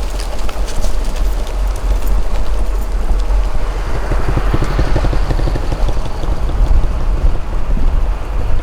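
Motorbike ride with heavy wind rumble on the microphone over the engine. A denser engine noise swells and fades about halfway through.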